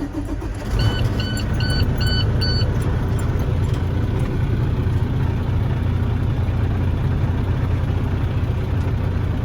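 Truck diesel engine cranking and catching about a second in, then idling steadily. A dashboard warning chime beeps five times as it starts.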